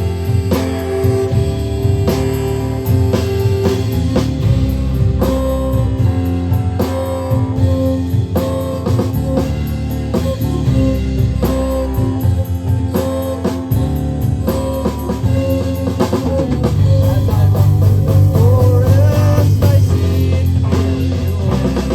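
Live rock band playing an instrumental passage: guitars over bass and a drum kit keeping a steady beat, growing louder about three quarters of the way through.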